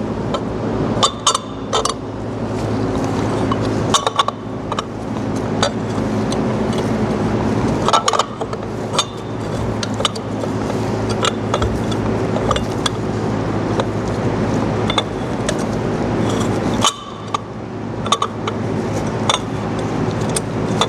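Allen key and steel socket cap bolts clinking against the metal pump housing as the bolts are started by hand: scattered sharp metallic clinks over a steady low machine hum.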